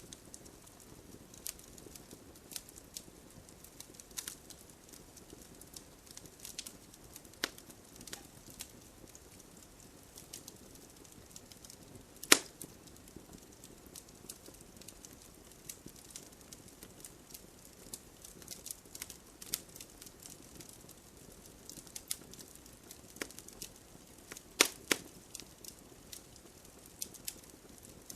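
Campfire burning with a soft steady hiss and irregular sharp crackles and pops of burning wood; one loud pop about twelve seconds in and a close pair of pops near the end.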